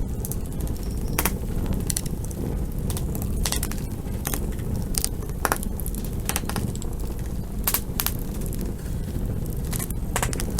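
Campfire burning with a steady low rumble and irregular crackles and sharp pops of burning wood.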